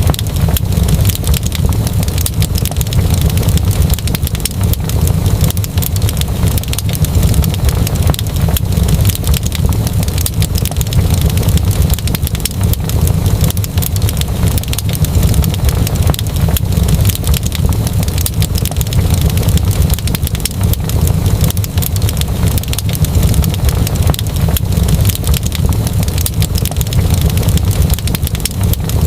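Wood fire crackling steadily, with dense irregular pops and snaps over a continuous low rumble.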